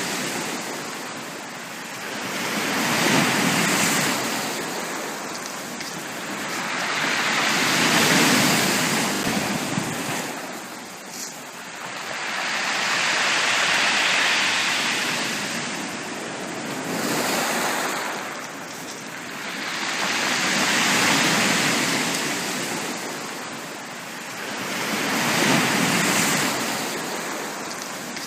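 Sea waves breaking and washing up on a beach, the surf swelling and falling away every four to five seconds.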